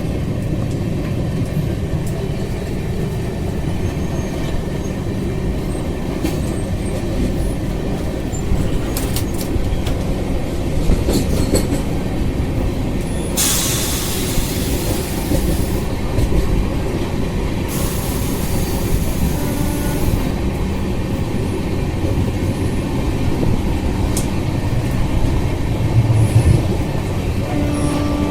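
Passenger train running on the rails, heard from inside a coach: a steady, loud rumble of wheels and carriage. Two stretches of hissing a few seconds long come about halfway through.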